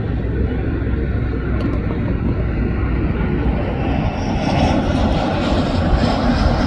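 Jet airliner engines running loud: a steady deep rumble, with a higher hiss that grows stronger about four seconds in.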